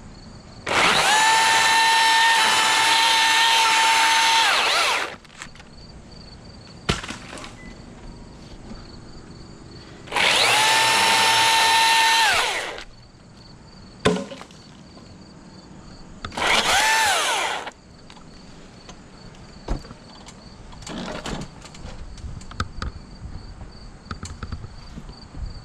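An electric motor running with a steady high whine in three bursts, about four seconds, two and a half seconds and just over a second long, each winding down in pitch as it stops. Crickets chirp steadily between the bursts.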